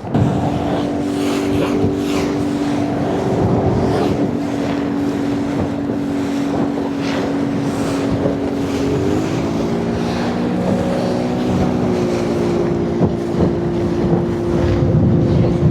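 Motorboat engine running steadily under way, its pitch rising about nine seconds in, with wind buffeting the microphone.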